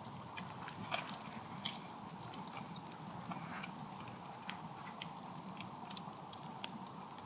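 A person chewing a mouthful of campfire-cooked steak, with many small, irregular clicks.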